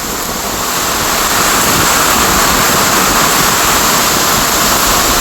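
Loud, steady rush of hurricane wind buffeting the microphone, growing louder about a second in.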